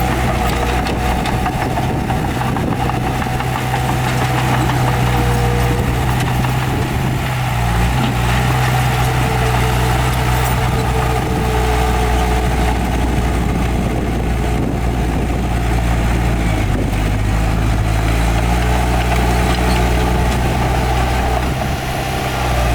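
Heavy diesel engine of earthmoving machinery running steadily, its low pitch shifting slightly partway through.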